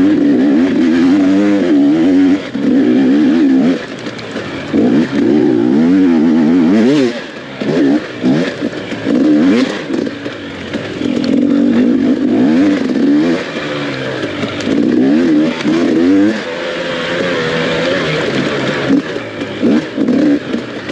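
Dirt bike engine revving hard, its pitch climbing and falling again and again as the throttle is rolled on and chopped off every few seconds through a race section.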